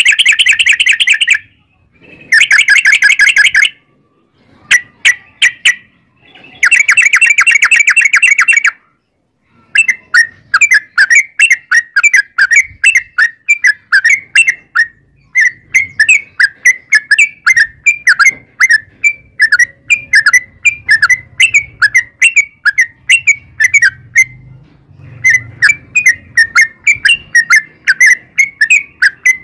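Yellow-vented bulbul (trucukan) singing its long rapid-fire 'ropel' song. It opens with three dense, fast trills in the first nine seconds, then runs into a long string of quick chirping notes, about six a second, with one short break near the end.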